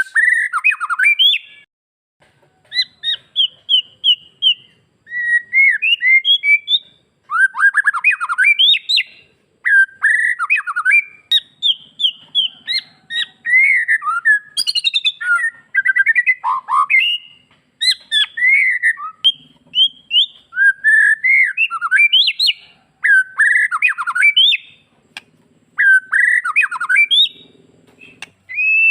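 White-rumped shama (murai batu) singing a fast string of varied, sliding whistled phrases mixed with harsher squawky notes, with short pauses between phrases.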